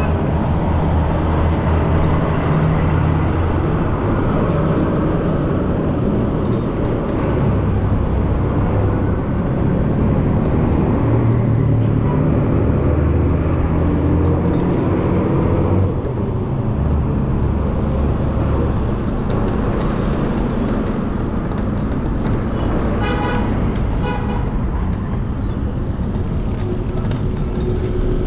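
Steady low rumble of road traffic and wind on the microphone while riding through city streets; a vehicle horn toots briefly near the end.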